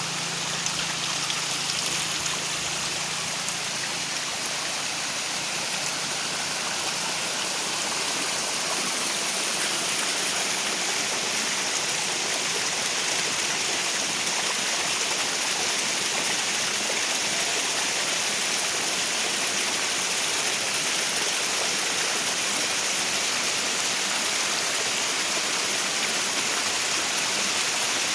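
Steady rush of heavy rain and running rainwater, an even hiss with no letup. A faint low hum sits underneath for the first few seconds and then fades out.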